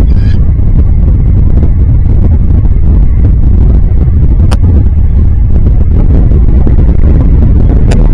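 Loud, steady wind rumble buffeting the microphone, with a brief high call right at the start and two sharp clicks, one about halfway through and one near the end.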